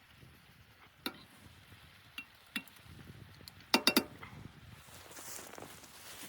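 A few scattered light clinks, then three sharp clinks in quick succession a little past halfway, like utensils or cookware knocking together.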